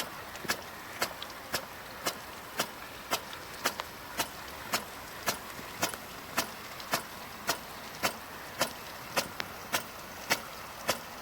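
A 1989 Odra water-driven hose-reel irrigator running, with sharp, regular clicks about twice a second over a steady hiss of water.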